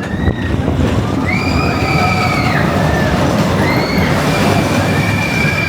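Expedition Everest roller coaster train running along the track with a loud, steady rumble, and high-pitched squeals rising and falling over it, twice in the first four seconds, then a held squeal near the end.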